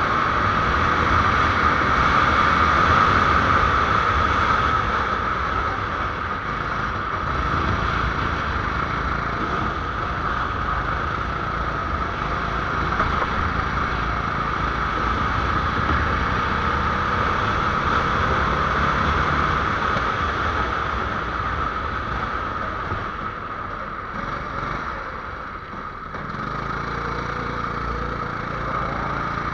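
A small 270 cc engine running continuously, with its note shifting as the throttle changes. It eases off briefly near the end, then picks up again.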